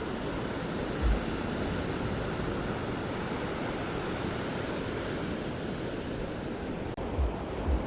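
Sea surf washing onto a sandy beach: a steady rushing hiss. A couple of low thumps of wind on the microphone come about a second in and near the end.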